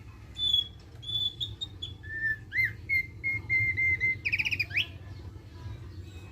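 Thick-billed white-eye (opior paruh tebal) singing a run of short whistled notes: a few high ones, then a row of lower steady notes, then a quick trill of rising notes a little past the middle. A low steady hum runs underneath.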